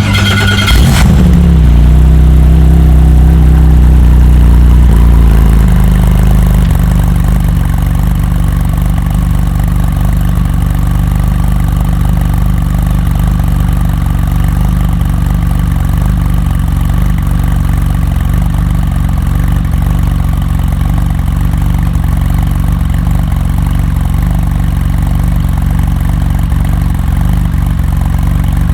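A performance car's engine just after starting, idling high for the first six seconds or so, then dropping to a steady, lower idle through a loud aftermarket exhaust.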